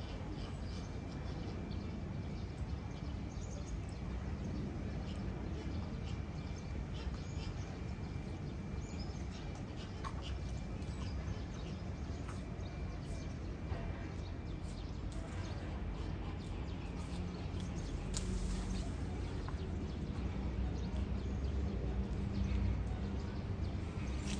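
Steady outdoor background noise with a low rumble, scattered faint clicks and ticks, and no clear single source.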